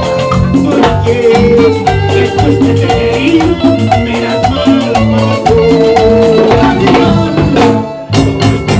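A live band playing Latin dance music, with steady percussion and a bass line under melodic lines. Near the end the band stops briefly, then comes back in.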